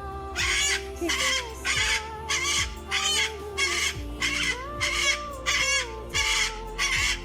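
A pet bird calling over and over with loud, harsh squawks, about a dozen in a row at roughly two a second.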